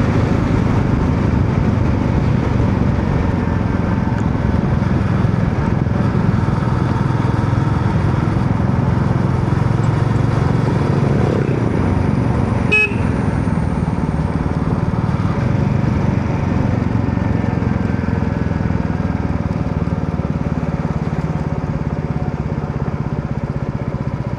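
Royal Enfield Meteor 350's single-cylinder engine and exhaust running steadily while riding, with a brief sharp sound about halfway through and the engine easing off near the end.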